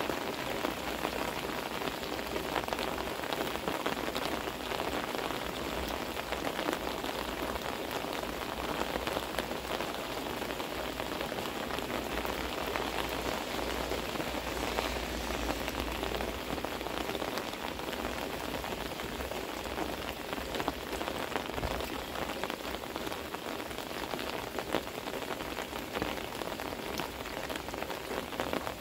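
Heavy rain pouring steadily onto an umbrella overhead and a wet wooden deck.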